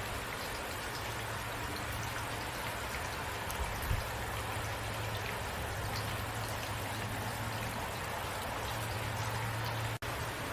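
Steady rainfall, an even hiss with scattered individual drop ticks, over a low steady hum. There is a soft low knock about four seconds in, and the sound cuts out for an instant near the end.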